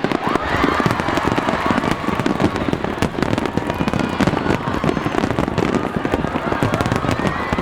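Aerial fireworks exploding in a dense, continuous barrage of bangs and crackle, with no pause.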